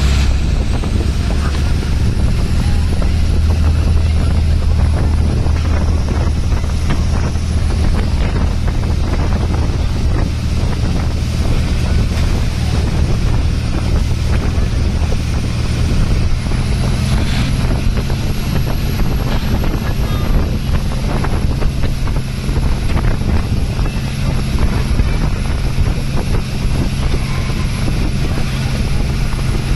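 Motorboat engine running steadily, with wind buffeting the microphone and a thin high whine that steps up in pitch about halfway through.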